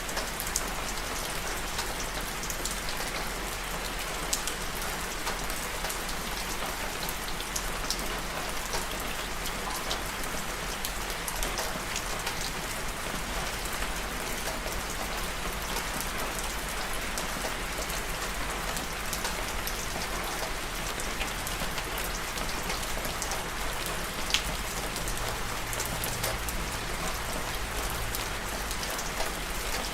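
Steady rain falling on a surface, with individual drops ticking now and then over the even patter.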